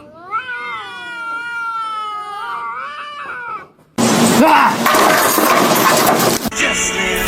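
Domestic cat giving one long, drawn-out yowling meow that rises and wavers in pitch for about three and a half seconds. About four seconds in, a loud, noisy din starts suddenly.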